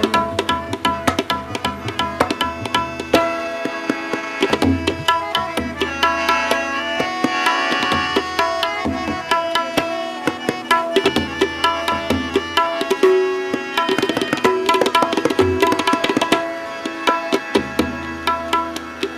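Instrumental interlude in Sikh raag kirtan: tabla playing fast, dense strokes, with deep resonant bass-drum strokes every second or two, over a sustained melody of held notes, typical of harmonium accompaniment.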